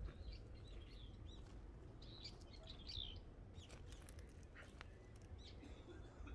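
Small birds chirping and twittering: short, high, quick calls in loose clusters, busiest about two to three seconds in, over a faint low rumble.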